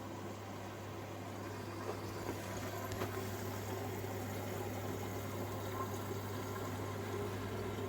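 Beko washing machine filling with water for its rinse cycle: water running steadily into the drum over a steady low hum.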